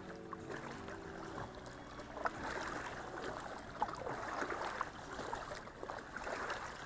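Water splashing and trickling around a paddled kayak, with two short knocks from the paddle or hull about two and four seconds in.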